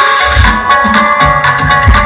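Loud music played through a large sound system during a sound check: heavy bass drum hits under held keyboard notes.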